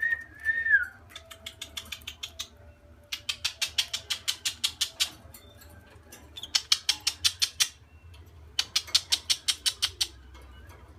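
Small pet parrot calling: a short falling whistle, then four runs of sharp, rapid chirps, about nine a second, each run lasting one to two seconds.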